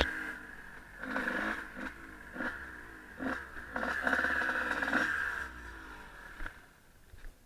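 Honda CR 125 two-stroke motocross engine revving in repeated rising and falling bursts, heard through the action camera's case. It dies away over the last couple of seconds.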